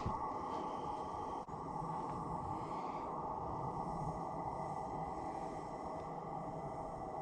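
Steady, even outdoor background noise: a faint continuous rush with no distinct events.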